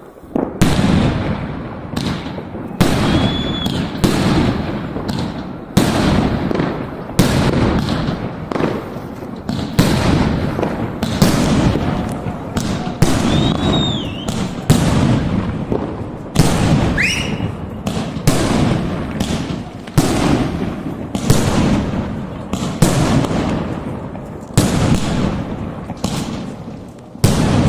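Fireworks display: aerial shells bursting in a steady run of loud bangs about every second, each trailing off in a crackling echo, with a few short whistles among them.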